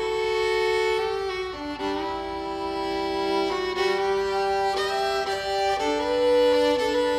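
Instrumental music led by a fiddle playing a slow tune of long held notes, often two at once.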